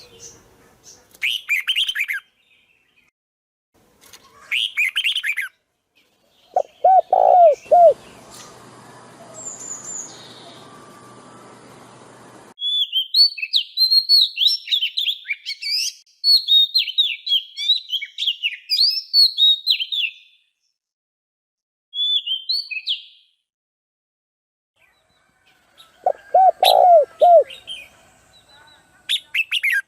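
Birds chirping and singing in separate short phrases, with a long run of rapid, high twittering in the middle and a lower call twice. A few seconds of steady hiss starts and stops abruptly.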